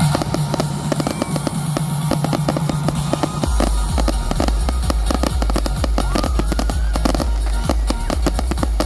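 Fireworks going off in a dense run of sharp crackles and pops over loud show music. A deep bass line comes into the music about three and a half seconds in.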